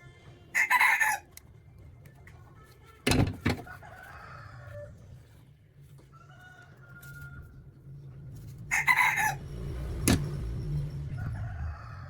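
Two short, loud chicken calls, one about half a second in and one about 9 seconds in. Sharp knocks come twice about 3 seconds in and once about 10 seconds in, over a low steady background hum.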